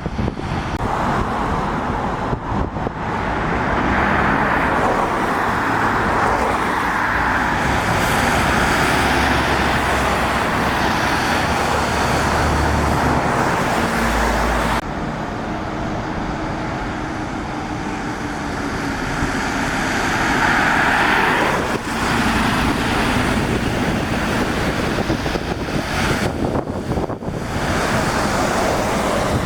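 Lorries and other road traffic passing on a wet road, tyres hissing on the wet surface over the drone of diesel engines, swelling as each vehicle goes by.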